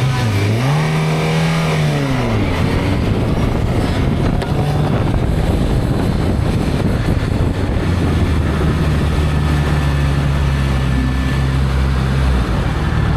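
Vehicle engine revving up, holding, then dropping back about two and a half seconds in, followed by a steady road and wind roar with an engine running underneath.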